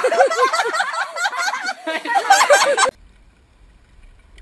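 Rapid, repeated calls from a domestic fowl chasing a person, mixed with shrieking, cutting off suddenly about three seconds in.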